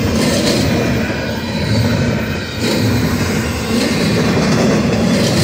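Double-stack intermodal well cars rolling past close by, a loud steady rumble of steel wheels on rail, dipping briefly about halfway through.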